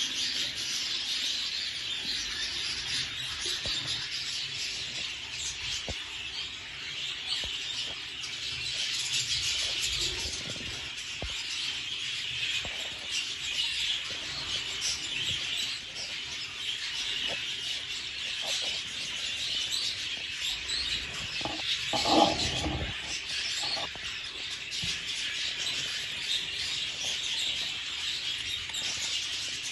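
Budgerigar chattering and warbling without pause in a dense stream of quick, high chirps. Partway through, a brief louder, lower-pitched sound stands out.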